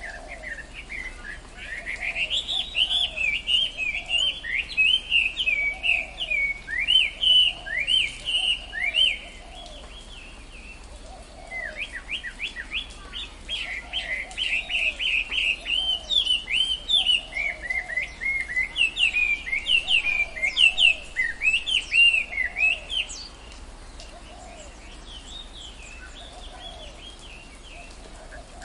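Tropical forest birds singing: two long bouts of rapid, chattering chirps, the first a few seconds long and the second about twelve seconds, with a softer, lower call repeating about once a second underneath.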